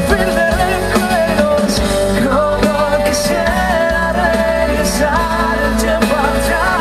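Live band music at concert level: a wavering melody line with vibrato over a steady bass.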